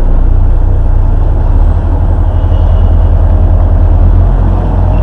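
Tour river boat's engine running with a loud, low rumble, pulsing in a fast even throb for a couple of seconds in the middle.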